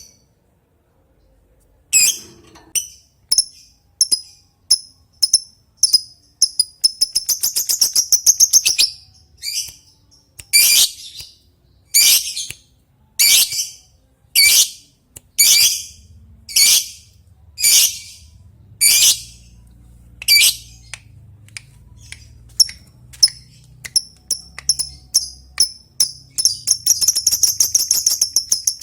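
Lovebird calling: sharp, high single calls repeated every second or so, the 'ngetik' call that challenges a rival. Twice they run together into a fast chattering trill, the 'ngekek': once about a quarter of the way in, and again near the end.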